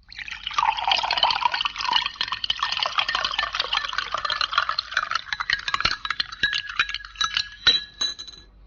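Liquid poured into a glass in a steady splashing stream, with a few glassy clinks near the end.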